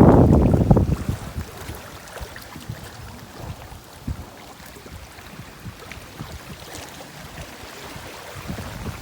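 Wind buffeting the microphone aboard a sailing boat, dying away about a second in and leaving faint water and hull noise with small knocks.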